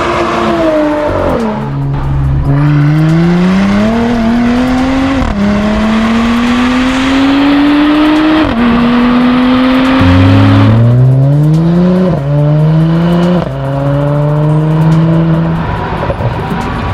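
Mercedes-AMG C43's twin-turbo V6 through an Armytrix catback exhaust, accelerating hard. The pitch climbs steadily and drops sharply at each gear change, about seven or eight times. The sound cuts off abruptly near the end.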